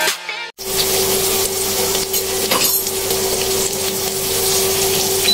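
A music jingle cuts off about half a second in. Then chopped onions and garlic sizzle in hot oil in a non-stick pan, with the spatula scraping and tapping against the pan as it stirs, over a steady hum.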